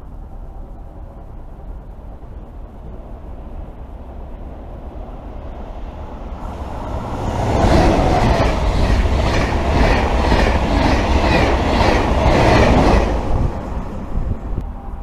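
A train passing through a station: a rumble builds, then for about five seconds a loud, rapid, rhythmic clatter of wheels over the rails, about three clacks a second, before it fades.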